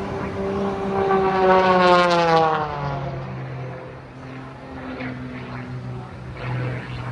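Propeller aircraft flying past, its engine note loudest about two seconds in and falling in pitch as it passes, then settling into a steadier, lower drone as it moves away.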